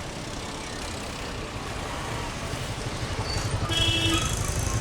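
Road traffic: a motor vehicle's engine rumble growing louder as it draws near, with a short horn toot near the end.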